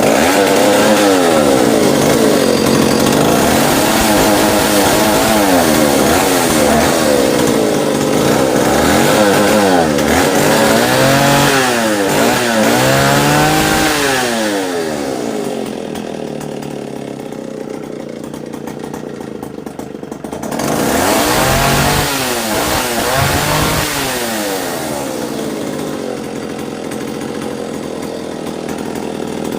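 Vintage Stihl S10 two-stroke chainsaw running, its engine revved up and down repeatedly through the first half, then dropping to idle, revved once more about two-thirds through and settling back to idle. It runs pretty well, though it could probably use some fine tuning.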